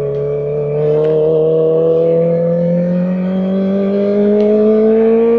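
Kawasaki Ninja ZX-4RR's 399 cc inline-four engine accelerating in one gear, its pitch rising steadily as the revs climb.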